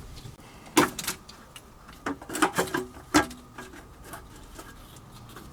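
Plastic fuel-line clips on a car's underbody clicking and snapping as the fuel line is pried out of them. There is a sharp knock about a second in, a quick cluster of clicks a little after two seconds, and a last loud snap just past three seconds.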